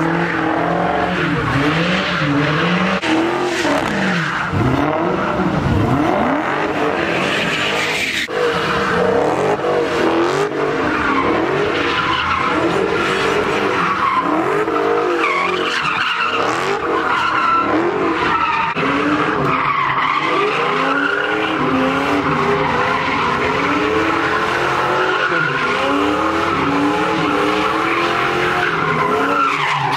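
Car engines revving up and down over and over while tires screech continuously, as cars spin donuts.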